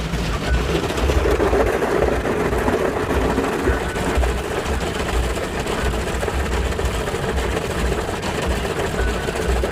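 Automatic car wash machinery running around the car, heard from inside the cabin: a steady mechanical noise with an uneven low rumble.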